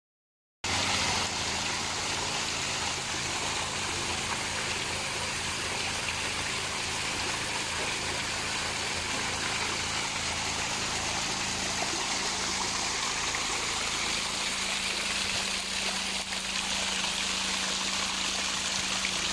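Water pouring steadily from a landscaped mini-pool waterfall, with a steady low hum underneath. It cuts in abruptly about half a second in.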